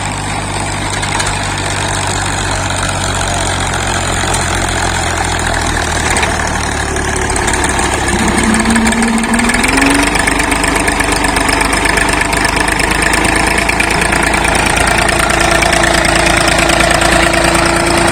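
Old diesel tractor engine running steadily as it powers a brick-making machine. About eight seconds in, a higher whine rises and then holds steady.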